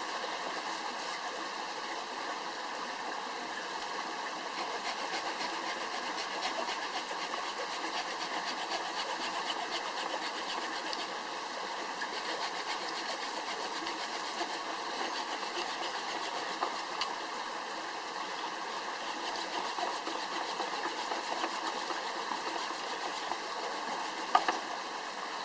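Wood fire crackling: a steady hiss dotted throughout with many small sharp pops and ticks.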